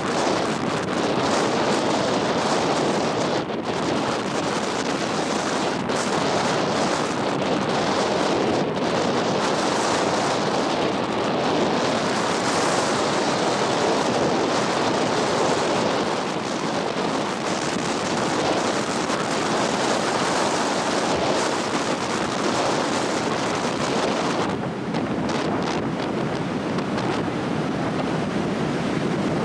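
Loud, steady wind buffeting the microphone, with ocean surf on the beach mixed in beneath it.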